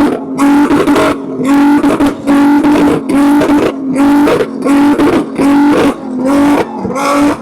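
A car engine revved hard over and over, about once a second, each rev held briefly at a high steady pitch before dropping back.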